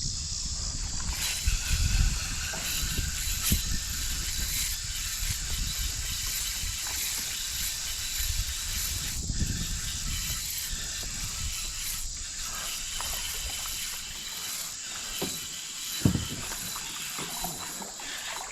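Spinning fishing reel being cranked, a steady mechanical clicking and whirring.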